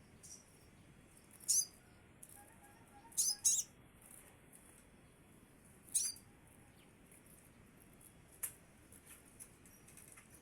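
Scarlet minivet giving short, very high, sharp calls spaced out at irregular intervals, two in quick succession about three seconds in.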